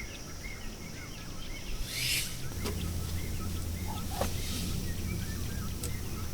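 A bird calling over and over with short chirps, about two a second, against outdoor ambience. About two seconds in there is a brief rustle, then a low steady hum comes in, with a few light clicks and knocks.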